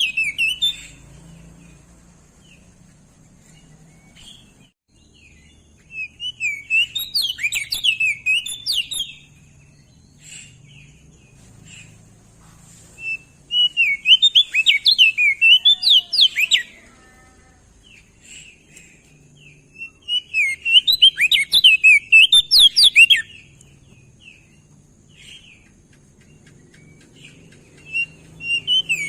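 Crested white-eye (opior jambul) singing in repeated phrases of rapid, sweeping high chirping notes. Each burst lasts about three seconds, with pauses of a few seconds between them.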